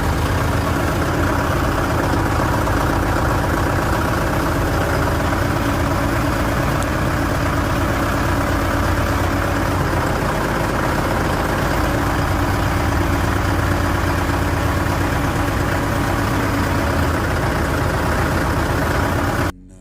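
Mahindra Yuvo Tech Plus 475 DI 4WD tractor's diesel engine running steadily, then cutting off suddenly near the end.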